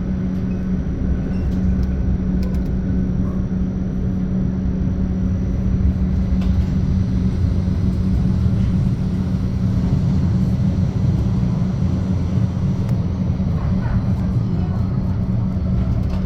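Modern tram running between stops, heard from inside the car: a steady low rumble of wheels and running gear with a constant low hum.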